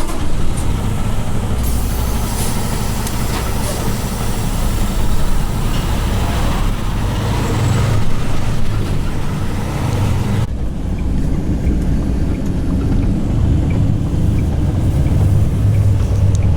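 Semi-truck diesel engine running with a steady low rumble, an even hiss over it that eases about ten seconds in.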